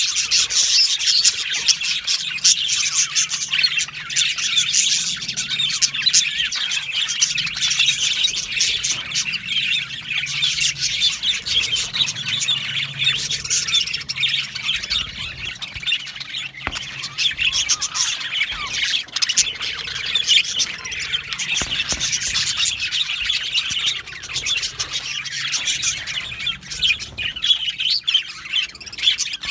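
A flock of budgerigars chattering: dense, continuous overlapping chirps, warbles and squawks from many birds at once.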